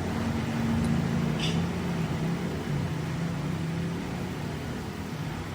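A machine's motor running steadily with a low hum that wavers slightly in pitch, and a faint click about a second and a half in.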